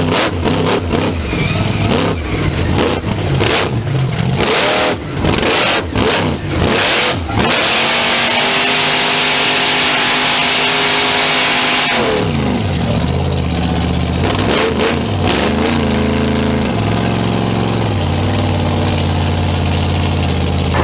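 A big vehicle engine revving hard, its pitch rising and falling repeatedly. It is choppy at first, holds a steady full-throttle run for about four seconds midway, then drops and climbs again.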